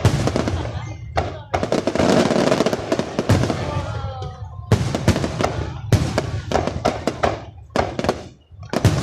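Aerial fireworks going off in quick succession: a dense volley of bangs and crackling about a second and a half in, then single sharp bangs spaced a second or so apart.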